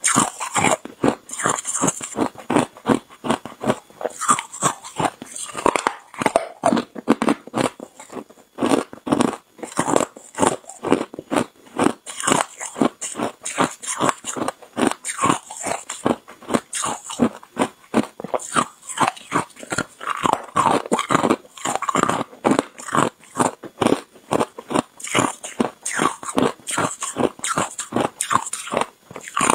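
Hard, clear ice being bitten and crunched in the mouth close to the microphone: a rapid, unbroken run of sharp crunches, about three a second.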